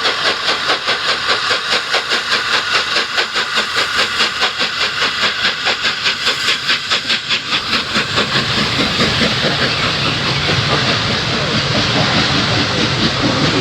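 Three-cylinder LNER A3 Pacific steam locomotive Flying Scotsman working a train, its exhaust beating rapidly at about four to five chuffs a second. About two-thirds of the way through, the chuffs give way to a steady rumble of the train running by.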